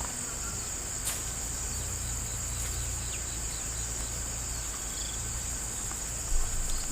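Insects chirring in a steady, high-pitched chorus, with a single faint click about a second in.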